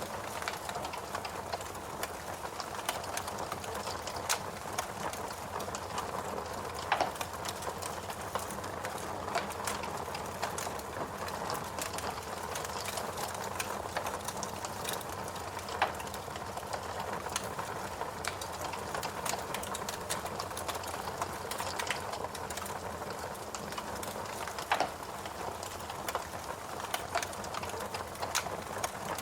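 Fireplace crackling: frequent small crackles and pops over a steady hiss, with a few louder pops.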